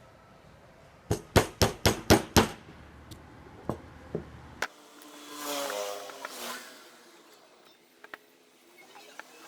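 A quick run of about seven sharp knocks, like hammer strikes, then a few lighter taps and a short scraping hiss.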